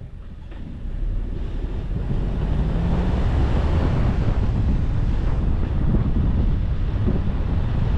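Wind buffeting the microphone of a camera on a moving car, with road noise beneath it: a steady, loud rumble that builds over the first two seconds.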